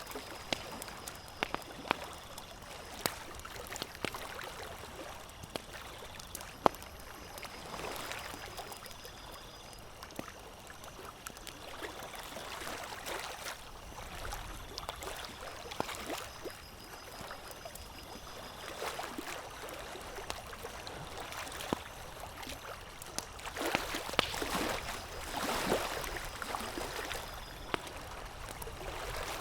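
Campfire crackling, with sharp, irregular pops and a wash of hiss that swells louder near the end.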